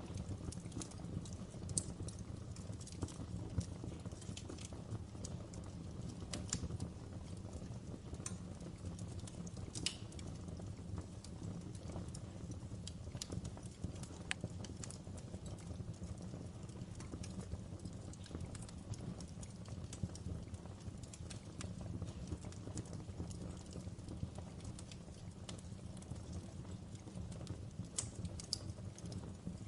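Wood fire crackling in a fireplace: a steady low rumble of flames with irregular sharp pops and snaps throughout.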